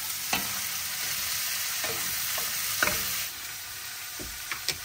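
Shrimp sizzling in bacon grease in a pan while being stirred, with several sharp clicks of a utensil against the pan. The sizzle drops in level a little past three seconds in.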